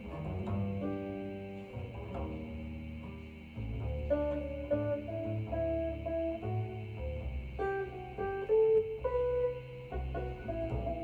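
Jazz recording with plucked guitar over a bass line, played back through a home stereo's loudspeakers and picked up in the room; the bass gets fuller about three and a half seconds in.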